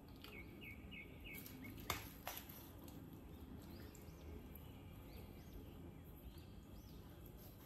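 Low background hiss with two sharp clicks about two seconds in, and faint bird chirps: a quick run of short chirps near the start and a few more scattered later.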